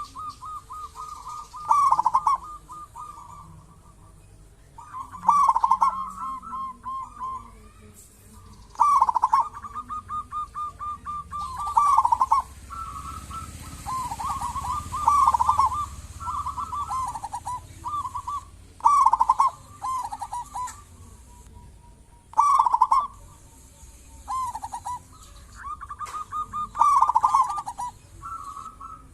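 Zebra dove (perkutut) cooing, giving repeated phrases of quick staccato coos every second or two.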